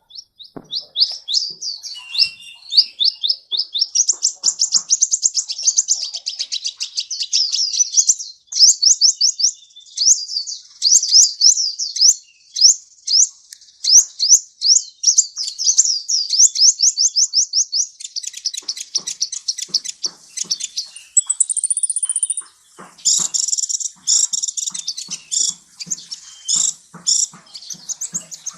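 Sunbird (kolibri) song: a long, fast run of high, rapid chirps and trills, with a brief thin higher note about three-quarters of the way through.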